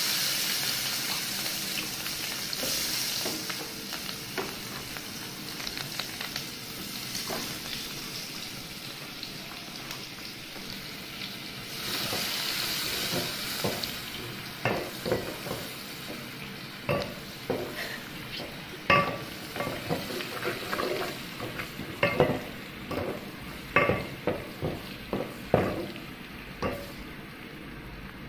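Food frying in oil in an aluminium pot, with a loud sizzle that eases over the first seconds to a steady frying hiss. From about halfway, a wooden spoon stirs the pot with repeated scrapes and knocks against the metal.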